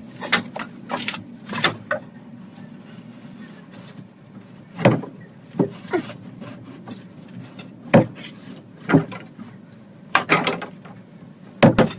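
Irregular wooden knocks and bumps, about ten spread unevenly, as a shaved wood filler piece is worked into the hollow end of a door.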